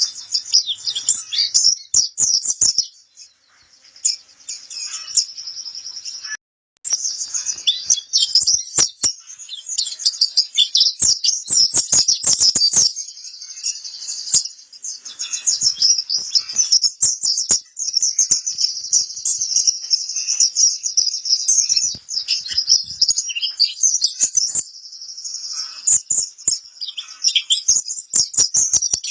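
Pleci kapur, a white-eye, singing a fast, high-pitched twittering song almost without pause, with one brief break about six seconds in.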